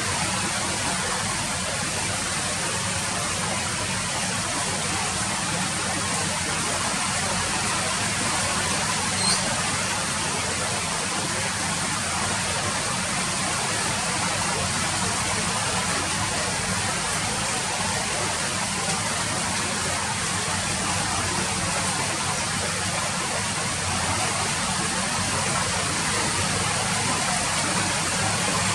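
Steady rain falling, an even hiss with no let-up, and one brief faint tick about nine seconds in.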